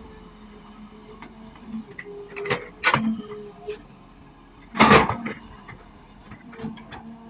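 Excavator at work: a steady engine hum broken by sharp knocks, the loudest about five seconds in.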